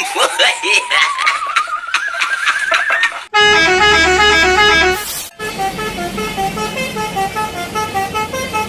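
A rising, wavering whistle with clicks, then about three seconds in a bus's Basuri telolet horn plays a tune of quick stepped notes, loud at first and going on more softly after a short break.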